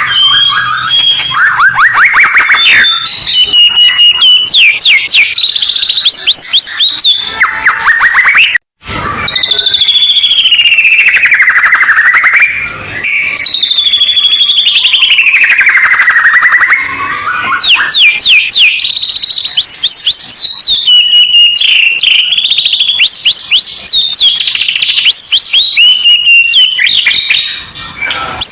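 Recorded songbird song played as a masteran training track for white-rumped shamas: loud, dense runs of rapid trills, repeated chips and sweeping whistles with no pause. About nine seconds in the song cuts off for an instant and a different stretch of song begins.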